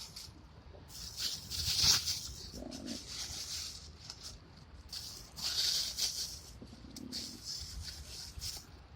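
Intermittent rustling and rattling in short bursts, two of them longer and louder, typical of handling food packets and shaking a container of dry seeds or spice.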